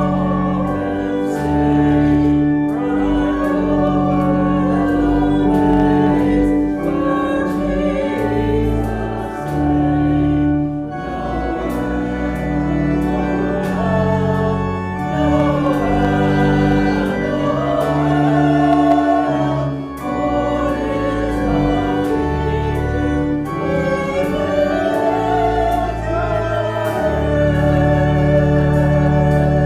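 Church music: voices singing a hymn-like piece over sustained organ chords and bass notes, in phrases with brief breaks.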